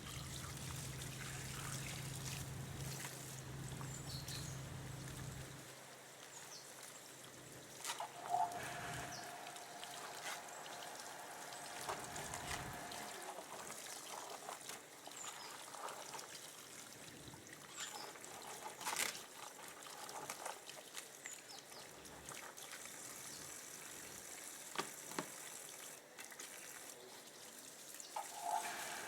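Water pouring and trickling, with scattered sharp clicks and knocks.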